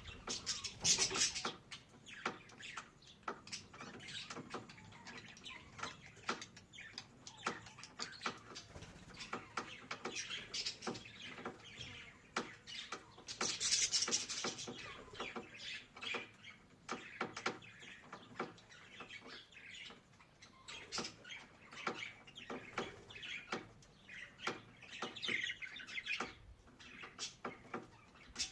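Budgerigars chattering and warbling: a busy stream of short chirps and clicks, with louder bursts of song about a second in, around the middle, and near the end.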